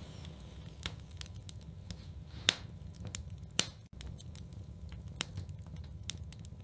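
Wood fire burning in a fireplace, crackling with many small ticks and three sharp pops over a low steady rumble.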